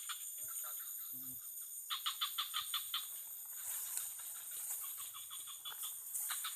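Rapid trilled calls of an unseen animal: bursts of quick clicking notes, about ten a second, each burst lasting about a second, over a steady high-pitched insect drone.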